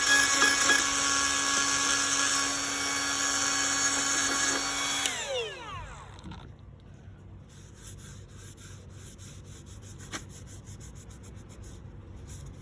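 Cordless rotary tool with a ball-nose carbide bit running at high speed, grinding out delaminated fiberglass; its steady whine stops about five seconds in and winds down in falling pitch as the tool is switched off.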